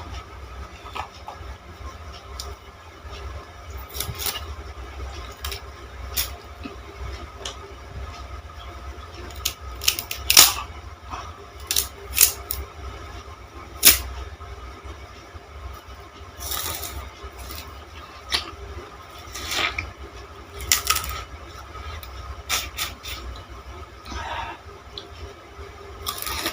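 Green sugar cane being bitten and chewed: irregular crisp cracks and crunches as the fibrous stalk splits, a few of them sharp and loud, over a steady low hum.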